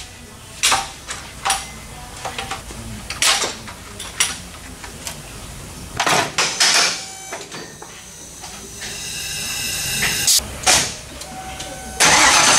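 Intermittent short hissing bursts and knocks in a workshop, then a whine that grows louder. About a second before the end, a car engine comes in running loudly.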